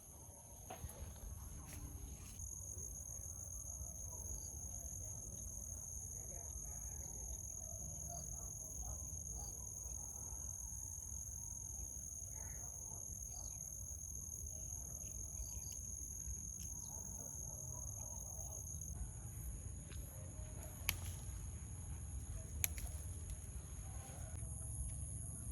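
Outdoor insect chorus: a high, even, pulsing buzz, with a steady low rumble and faint rustling beneath, and two sharp clicks near the end.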